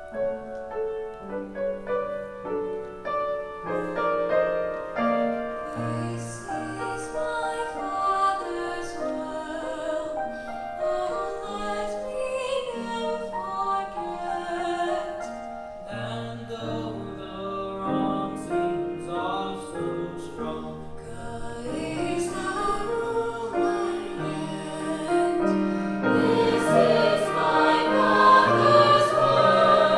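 Children's choir singing a song, the sound swelling louder in the last few seconds.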